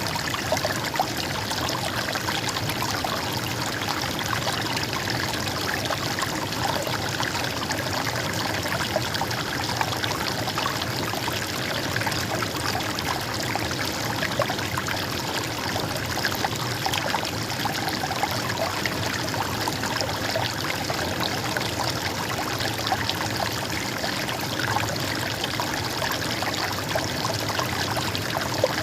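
River water flowing and babbling steadily over stones, with fine trickling and splashing throughout.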